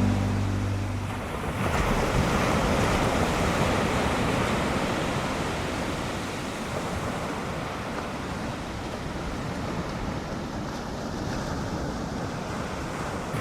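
Ocean surf rushing and breaking in a steady wash that swells and eases, with some wind noise; the tail of a song fades out about a second in.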